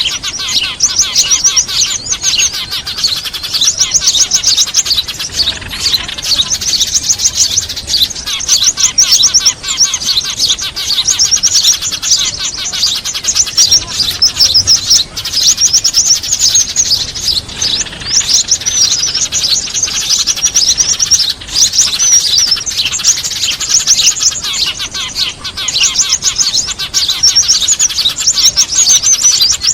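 Bird-lure recording of excited small birds, Eurasian tree sparrows among them, chattering loudly in dense runs of rapid, high chirps with only brief gaps.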